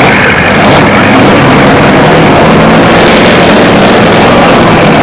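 Two-wheel-drive pulling truck's engine running very loud and steady, with no letting up in the noise.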